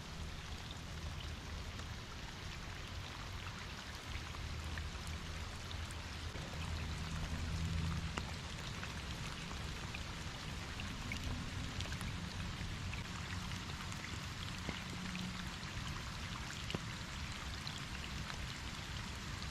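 Steady light rain falling, with many small individual drops ticking, over a faint low rumble.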